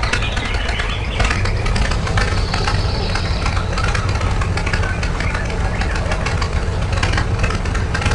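A small engine running steadily, with a dense, fast ticking.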